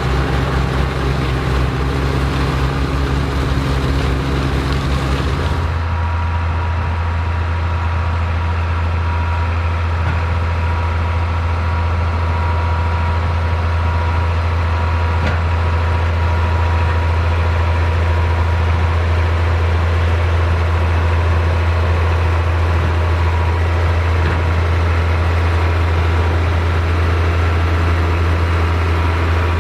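Vintage tractor engine running steadily with a deep, even hum. About six seconds in the sound changes: the hiss above drops away and a single steady low drone remains.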